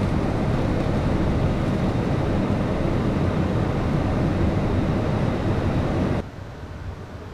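Steady in-flight cockpit noise of a Beechcraft Premier 1A business jet: an even rush of airflow and engine noise, strongest in the low range. About six seconds in it drops suddenly to a much quieter level and carries on.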